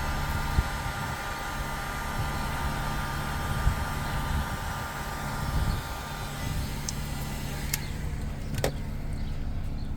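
Heat gun on its cool setting blowing steadily over the seat, a rushing air noise with a faint motor whine. Near the end a click comes, and the high hiss drops away.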